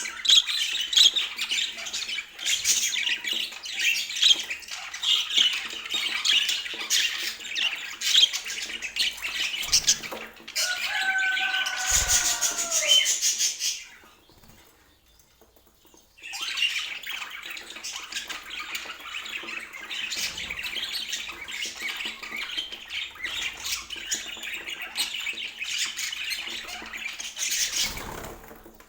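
Budgerigars chattering and squawking in a rapid warble of high chirps. A lower, falling call stands out about a third of the way in, and the chatter drops out for a couple of seconds about halfway before starting again.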